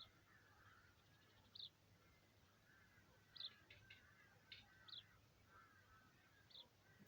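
Faint birdsong: short high chirps come every second or so, with softer warbling notes in between.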